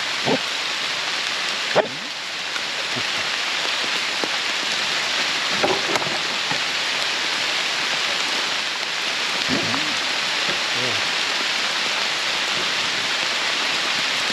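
Heavy rain pouring down steadily, with a sharp click about two seconds in.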